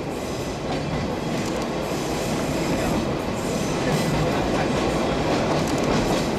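Sagano Scenic Railway sightseeing train running along the track, heard from on board: a steady rumble and clatter of the carriages' wheels on the rails.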